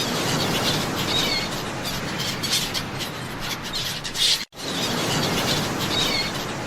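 Short high bird chirps over a steady rushing outdoor noise, which drops out for a moment about four and a half seconds in.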